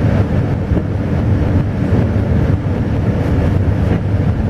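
Alishan Forest Railway train running, heard from on board: a steady, loud low rumble and rushing noise of the moving carriage.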